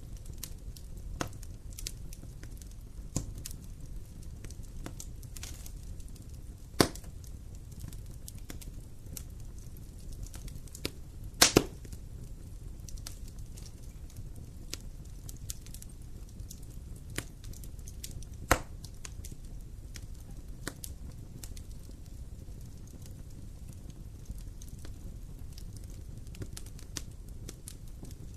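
Wood campfire burning: a low, steady rumble of flames with scattered crackles and sharp pops of the burning wood. The loudest is a double pop about midway.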